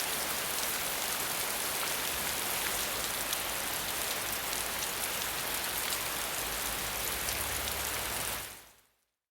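Steady rain falling, a dense hiss flecked with the patter of drops over a low rumble, fading out near the end.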